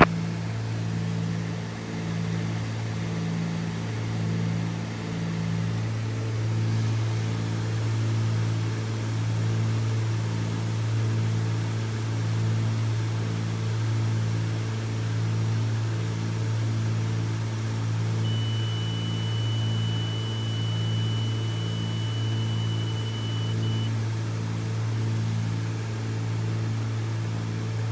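Cessna 310Q's twin Continental IO-470 engines and propellers droning steadily in cruise, heard inside the cabin, with a slow regular pulsing in the drone. A thin steady high tone sounds for about five seconds past the middle.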